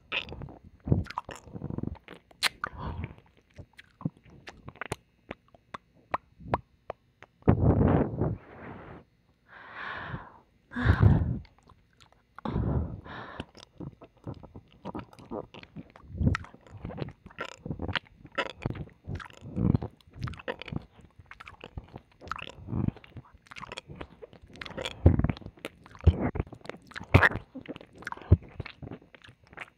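Close-miked ear-licking mouth sounds in the left ear: many quick wet licks, lip smacks and tongue clicks, with a couple of longer wet slurps about 8 and 11 seconds in.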